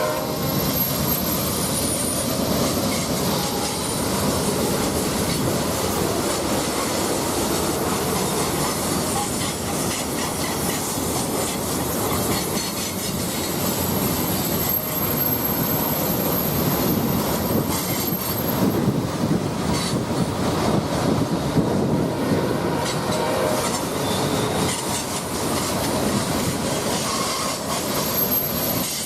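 Freight train rolling past: steel wheels running over the rails with a steady rumble and clatter, and a thin high wheel squeal that comes and goes.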